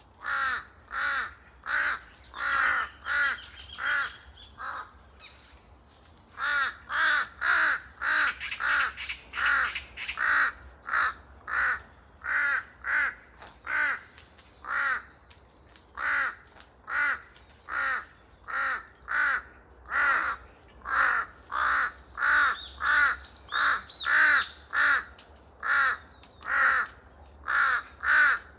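Large-billed crows (jungle crows) cawing: harsh caws in quick series, about two a second, pausing once for about a second near the start, then carrying on.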